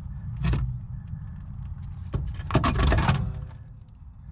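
Knocks, clicks and a short metallic clatter from working the Datsun 521 pickup's brakes during a one-person brake bleed, over a steady low hum.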